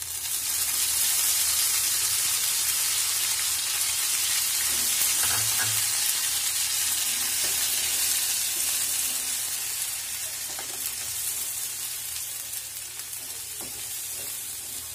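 Coarsely ground green pea paste sizzling as it fries in hot mustard oil in a pan, stirred and scraped with a spatula. The sizzle is loudest in the first half and eases off somewhat after about ten seconds.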